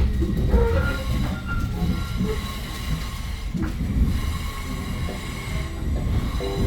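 Metro-North commuter train running on the rails, a steady low rumble with thin, high steel-wheel squeal over it.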